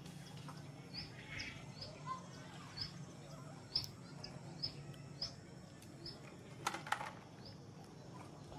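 A small bird chirping over and over, short high notes about two a second, over a low steady hum. About seven seconds in, two sharp knocks close together.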